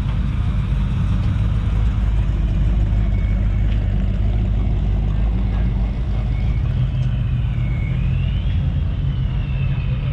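Motor vehicle engine running steadily with a deep rumble. A faint high whine rises and falls in the second half.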